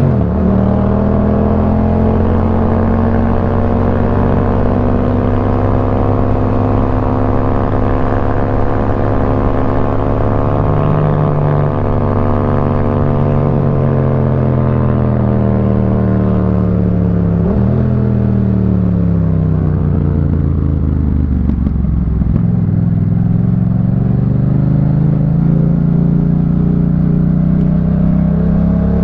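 Yamaha MT-07's 689 cc parallel-twin engine through a Jeskap K4 full aftermarket exhaust, ridden on the road. Its pitch climbs and falls with the throttle, with quick gear changes near the start, about halfway through and again near the end.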